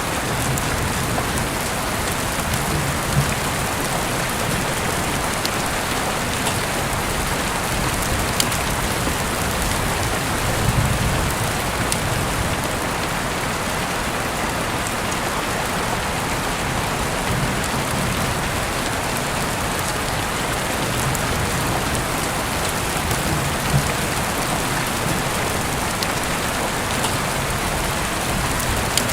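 Steady, dense rain falling, with a few scattered sharp ticks or pops rising over it.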